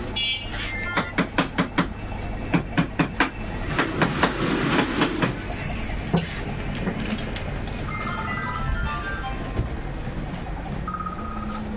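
Quick runs of sharp clacks, about five a second in groups of four or so, over a steady low hum, then a short stepped electronic melody near the end.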